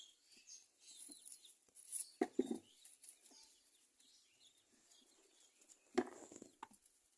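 Birds calling, with a few sharp knocks a little after two seconds in and a single one about six seconds in.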